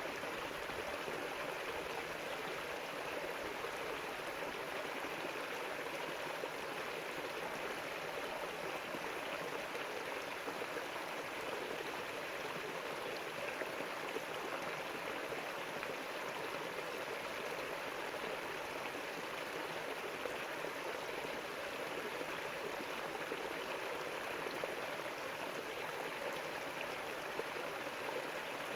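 River water flowing and rushing steadily over rocks, an even, unbroken sound.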